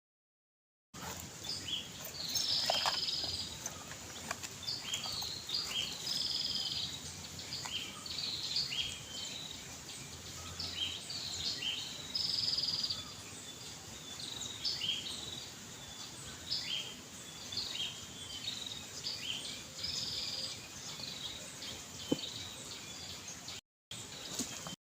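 Small birds chirping: many short, high calls one after another, with a single faint click near the end.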